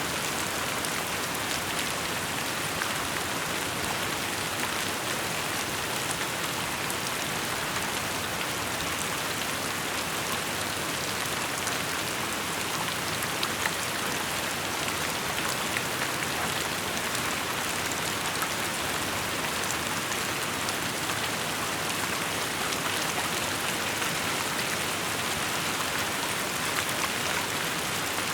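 Steady rainfall with many small drops pattering on surfaces, an even hiss with no breaks.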